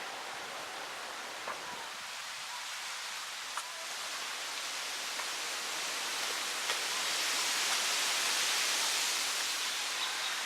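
Wind rustling through tree foliage as a steady hiss that swells in the second half. A few faint clicks and short high chirps sound over it.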